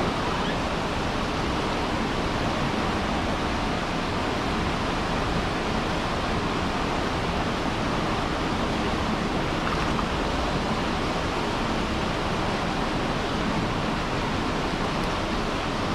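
Steady rush of water pouring out of a spillway, running high after heavy rain.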